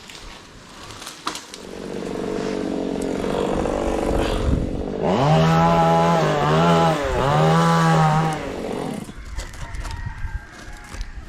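Two-stroke chainsaw running at idle, then revved to full throttle about five seconds in for some three seconds, its pitch dipping twice, before falling back to idle.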